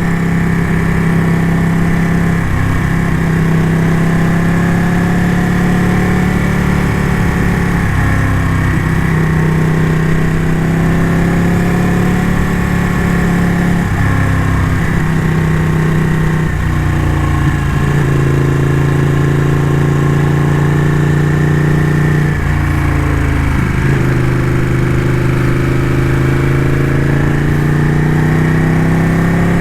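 Ducati motorcycle engine running under way, its pitch rising and then dropping several times as the revs change.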